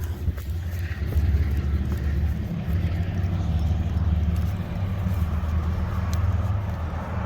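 Train passing close by, a steady low rumble.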